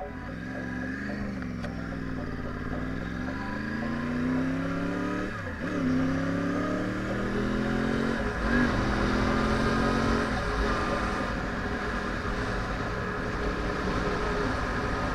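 2010 Yamaha R1's crossplane inline-four engine under way: the revs dip and rise again, then climb and drop sharply twice, about five and eight seconds in, as it upshifts. After that the engine fades under steady wind noise at speed.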